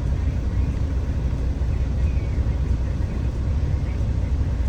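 Steady low rumble of a moving bus's engine and road noise, heard from inside the passenger cabin.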